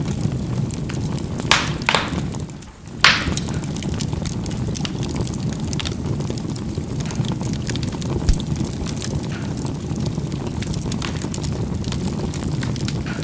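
Charcoal burning in a fireplace with a steady low rumble, and the coals cracking in sharp pops. The loudest pop comes about three seconds in, right after a brief lull, with fainter ticks later on.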